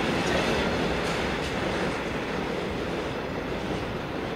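Freight train of hooded steel-coil wagons rolling away over the station pointwork, its wheels rumbling and clattering over the rail joints. The noise fades steadily as the end of the train draws off.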